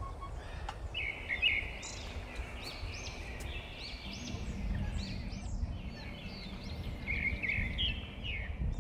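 Wild birds calling in a run of short, quick chirping notes that rise and fall, with a low background rumble underneath.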